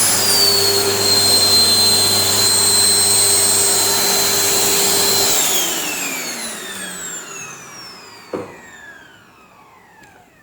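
Panasonic MC-CJ911 vacuum cleaner running on its newly fitted 2000 W motor, a steady high whine with no strange noise from the bearings. About five seconds in it is switched off, and the motor's whine falls in pitch as it spins down. There is a single knock a little after eight seconds in.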